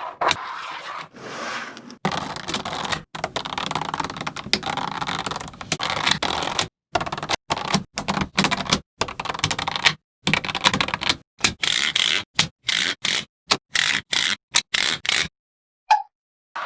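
Small magnetic balls clicking, rattling and scraping together as they are handled and snapped into place, in rapid runs of clicks that cut off abruptly again and again. The sound stops shortly before the end.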